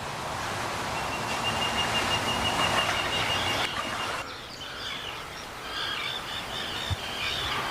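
Outdoor ambient noise with a thin steady high tone, then, after a sudden change about four seconds in, birds chirping repeatedly.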